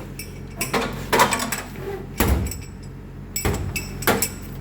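Sharp clanks and knocks of hardware as lifting straps are popped loose from a load, about five strikes roughly a second apart, over the steady low hum of an idling excavator.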